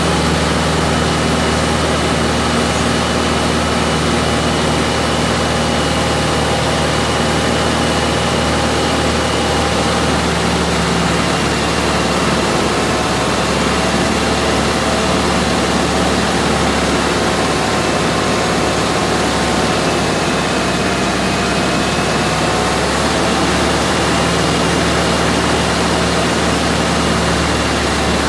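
A heavy machine's engine running steadily at constant speed, with a faint high whine above it.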